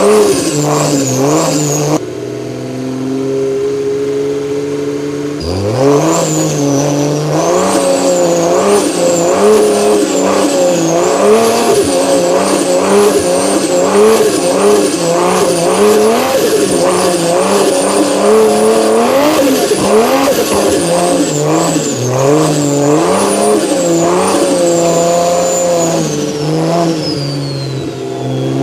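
BMW N54 3.0-litre inline-six converted to a single turbo, revved up and down over and over, with a high turbo whistle that climbs with each rise in revs and falls away between them. It runs steadier and quieter for a few seconds early on, and the whistle winds down in one long fall near the end.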